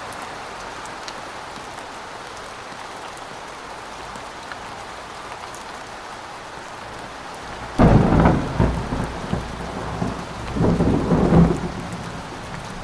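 Steady rain falling, then a sudden loud clap of thunder about eight seconds in that rumbles on in two swells for about four seconds before dying back into the rain.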